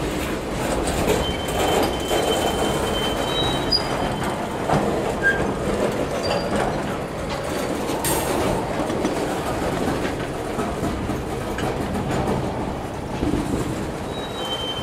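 Freight train of tank cars rolling past, a steady rumble and clatter of steel wheels on the rails with a few short high-pitched wheel squeals and a sharp clank about eight seconds in.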